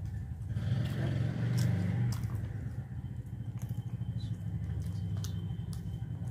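Close-up chewing of puri bread and fried potato: a steady low mouth sound with scattered small wet clicks.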